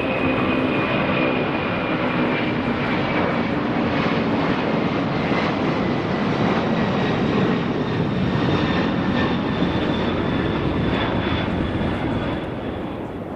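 Jet airliner's engines running loud and close, a steady roar with a high whine that slowly falls in pitch as the aircraft passes. The sound fades a little near the end.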